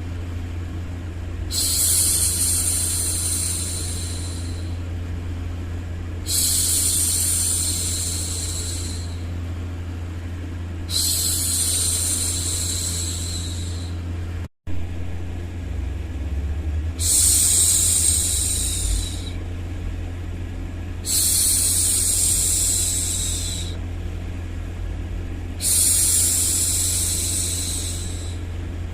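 A woman's hushing "shhh" sound for soothing a baby, repeated six times, each hush lasting two to three seconds with pauses of about two seconds between. A steady low hum runs underneath, and the sound cuts out for a split second about halfway.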